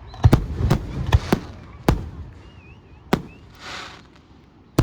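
Aerial fireworks shells bursting: a quick run of five booms in the first two seconds, another about three seconds in, and a last one at the very end. A short warbling whistle comes just before the boom at three seconds.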